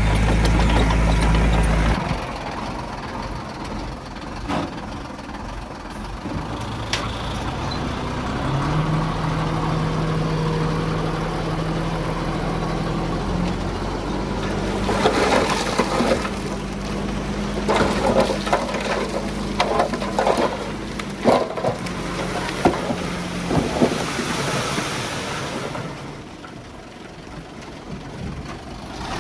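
Diesel engine of heavy earthmoving equipment running, loud for the first two seconds and then quieter and steady, with a run of clattering knocks in the middle of the stretch.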